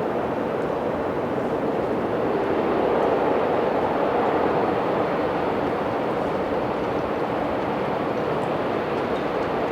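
Jet airliner engines running loud and steady, swelling slightly a few seconds in.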